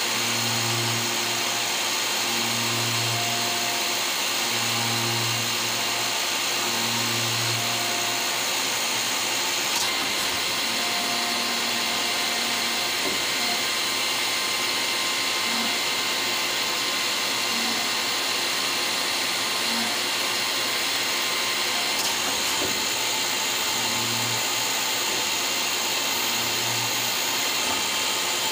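Citizen M32VIII Swiss-type CNC lathe running, a steady high hiss with a low hum that pulses about every two seconds at the start and again near the end. Two short clicks, one about ten seconds in and one past twenty seconds.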